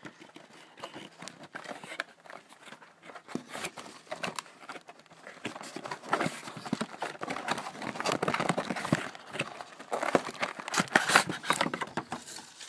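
Hands opening and handling the packaging of a Topps baseball card value box: rustles, scrapes and small clicks, busier in the second half.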